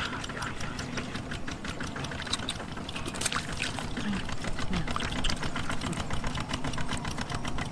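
A small engine running steadily with a rapid, even ticking, over water pouring and splashing.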